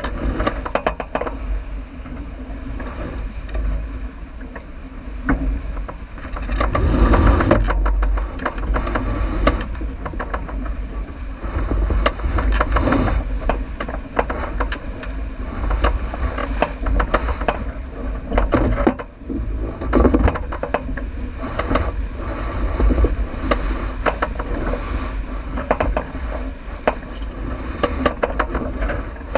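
Wind buffeting the microphone and water rushing along the hull of a J80 sailboat running downwind, with frequent small knocks and clicks throughout and a louder gust about seven seconds in.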